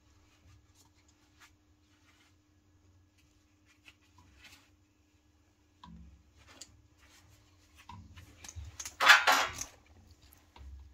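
Small metal and plastic parts being handled and worked with tools: scattered light clicks and taps, then a brief louder rattling clatter about nine seconds in.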